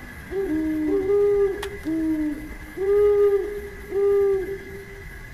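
A bird's deep hooting calls: five short, arched notes at two pitches, some overlapping. Behind them runs a steady faint high tone.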